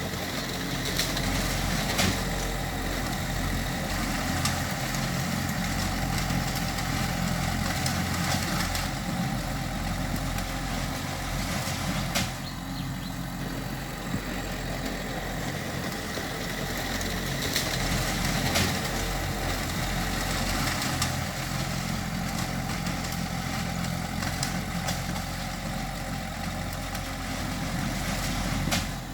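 Diesel engine of earthmoving machinery running steadily while working, with a few sharp metallic knocks, about 2 s in, near the middle and again a few seconds later.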